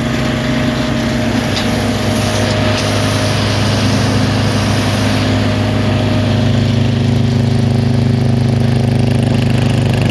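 Big wood chipper's engine running steadily. About six seconds in, the hiss on top fades and the low hum grows stronger.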